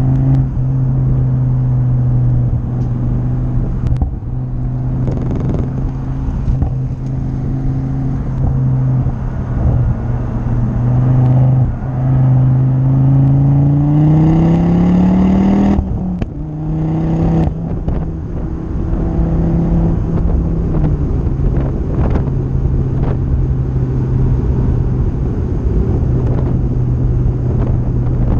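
Ford Focus ST's 2.5-litre turbocharged five-cylinder engine under way on track, holding steady revs, then pulling up through the revs for a few seconds past the middle before the revs drop sharply. It then settles back to a steady note, with wind and road noise throughout.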